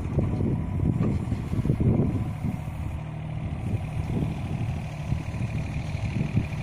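Yanmar ViO35-3 mini excavator working: its diesel engine runs under varying load, swelling and easing as the hydraulics work. A faint, high, pulsing tone comes in near the end.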